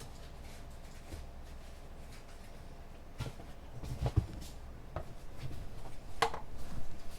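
Quiet internet café room tone: a low steady hum with scattered light clicks and knocks, sparse at first and more frequent from about three seconds in. The loudest is a sharp click about six seconds in.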